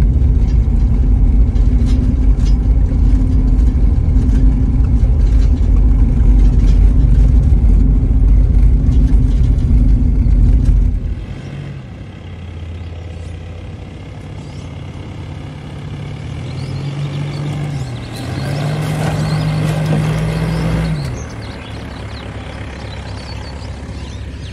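Loud, steady road and engine rumble heard from inside a moving vehicle on tarmac. About eleven seconds in it cuts to a quieter outside sound of an SUV engine pulling through mud, rising and falling in pitch as it revs, loudest a few seconds before the end.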